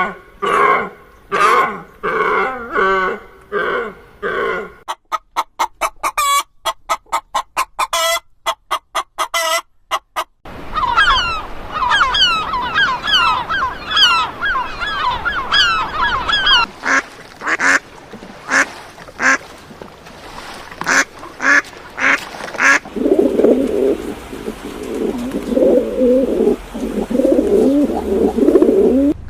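Ducks and geese calling in a string of changing bouts: repeated honks and quacks, a fast run of short sharp calls, higher chirping calls that slide in pitch, and lower calls near the end.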